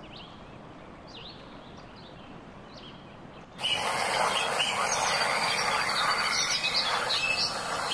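Outdoor ambience with small birds chirping: faint at first, then about three and a half seconds in a much louder, even rushing noise starts abruptly, with more bird chirps over it.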